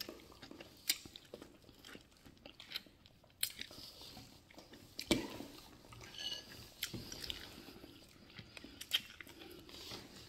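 A person chewing and biting food close to the microphone: soft wet chewing with scattered sharp clicks and smacks, the loudest about five seconds in.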